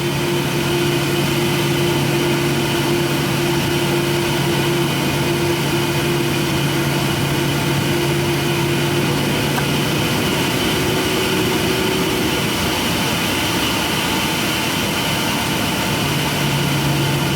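Steady machine hum in an airliner cabin while the plane sits before taxiing, with two steady low tones over a hiss of air. About ten seconds in, the lowest tone drops out for several seconds, and the next one rises slightly, then fades.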